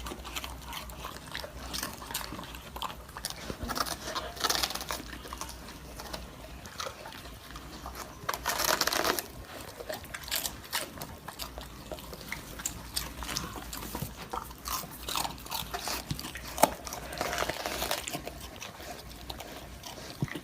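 A dog chewing, with irregular crunching and clicking and a louder stretch of crunching about nine seconds in.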